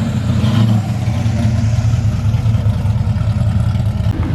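Car engine running steadily at low revs, a deep continuous rumble.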